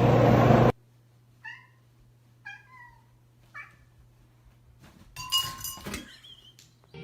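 A cat meowing three times in short, separate calls about a second apart, after a loud rushing noise cuts off suddenly under a second in; a brief jumble of fainter, mixed noises follows near the end.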